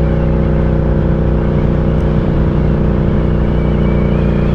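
Ducati Diavel 1260's 1262 cc L-twin engine running steadily, its pitch holding level.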